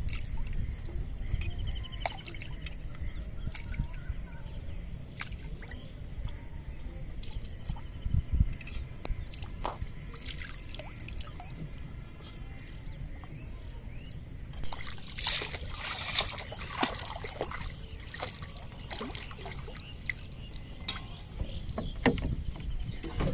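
Water splashing and sloshing around a small boat, with scattered knocks, and a burst of louder splashing about fifteen seconds in. A steady high-pitched buzz runs underneath until about halfway through.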